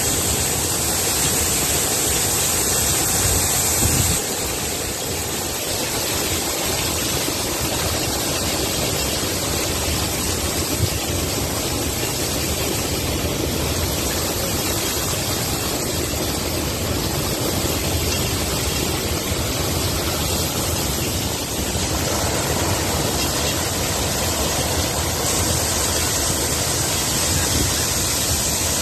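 Heavy rain pouring down as a steady, dense hiss, with a slight change in its sound about four seconds in and again near the end.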